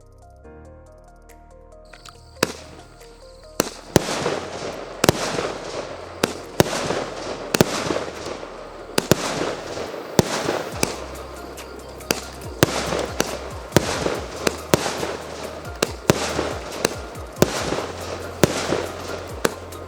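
A 36-shot, 0.8-inch consumer fireworks battery firing. Sharp bangs come about once a second, beginning about two seconds in, over continuous crackling from the bursting shells.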